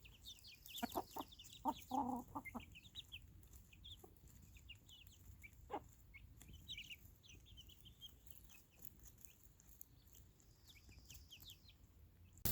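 Birds calling outdoors: quiet, rapid high chirps scattered throughout, with a few short, lower calls between about one and two and a half seconds in.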